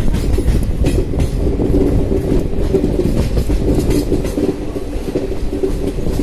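Passenger train running, heard from aboard one of its coaches: a steady low rumble and hum with irregular clicks of the wheels over the track.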